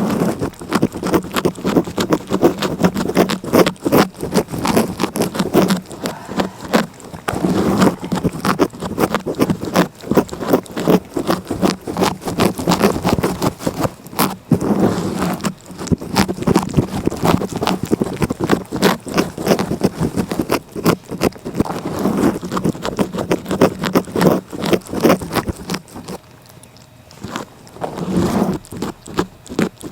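A cat's tongue licking close to the microphone in quick, repeated strokes, with a brief pause near the end.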